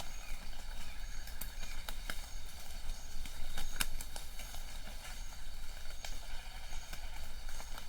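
Light rain falling in a forest: a steady hiss with irregular drops tapping close by.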